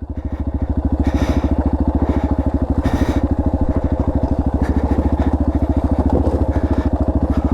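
Dirt bike engine running at low, steady revs with an even chugging pulse and no revving, as the bike rolls down a steep trail drop.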